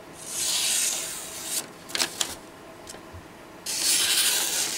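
ESEE Izula II knife with a hand-ground convex edge slicing through a sheet of paper in two long hissing strokes, one at the start and one beginning near the end, with a few short clicks between them. It cuts without snagging, showing no edge problem after field dressing use.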